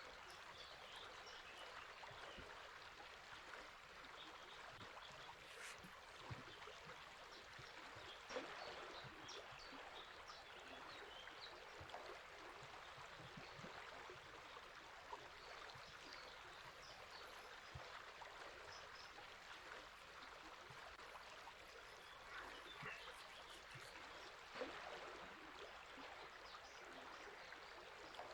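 Quiet, steady rush of a flowing river, with faint, short bird chirps scattered over it, clustering in the first few seconds, the middle and near the end.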